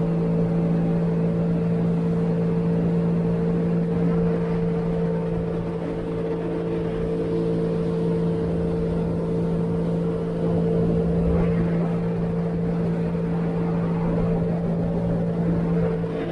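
Sea-Doo GTI 130 personal watercraft, its three-cylinder Rotax engine running at a steady cruise. The engine drone holds one even pitch throughout.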